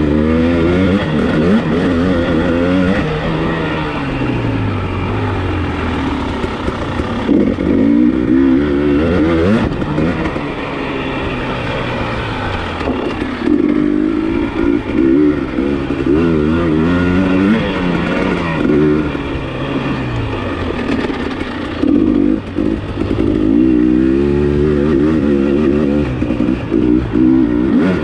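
KTM EXC enduro motorcycle engine under way on a dirt track, its pitch rising and falling again and again as the throttle is opened and closed.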